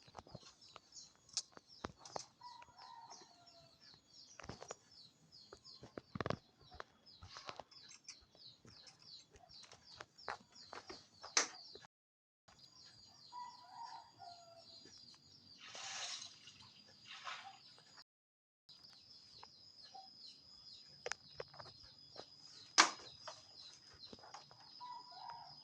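Birds calling: a rapid run of high chirps repeating several times a second throughout, with a few short lower calls, scattered knocks and clicks, and two brief dropouts to silence.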